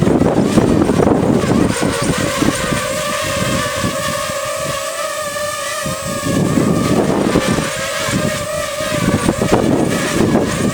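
Quadcopter drone hovering in strong gusty wind: a propeller whine made of several steady tones that drift slightly in pitch as the motors hold position, under heavy wind buffeting on the microphone.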